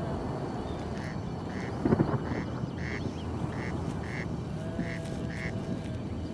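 A bird calling in a run of about eight short, evenly spaced notes over a meadow background, with one brief thump about two seconds in.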